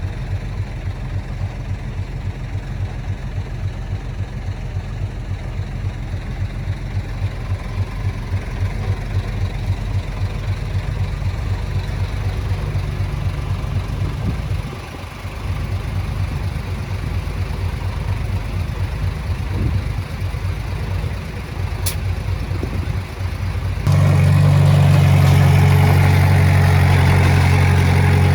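Heavy diesel engine running with a steady, pulsing throb. About 24 seconds in, it turns suddenly louder and smoother.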